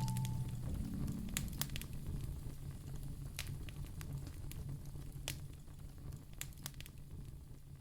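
Wood fire crackling in a fireplace, with scattered sharp pops and snaps of burning logs over a low, steady hum that slowly fades. The last note of soft music dies away in the first half second.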